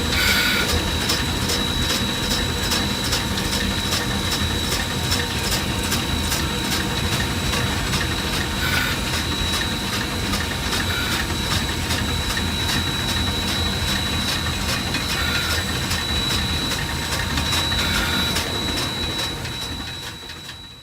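Cab of a three-truck superheated Shay geared steam locomotive on the move: steady running noise with a quick, regular beat and a high, steady whine over it. The sound fades out near the end.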